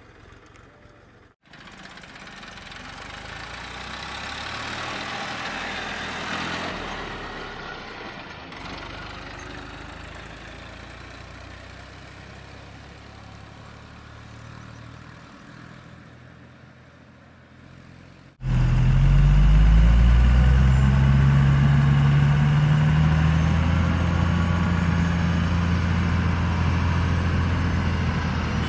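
Diesel engines of a backhoe loader and tractors running, in cut-together clips. A moderate engine sound swells and fades, then a sudden cut about two-thirds in brings a much louder engine close by, with a steady low hum that dips and rises slightly in pitch.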